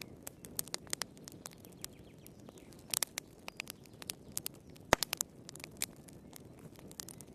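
Wood fire crackling in a fireplace: irregular snaps and pops over a low, steady hiss of flames, with one sharper pop about five seconds in.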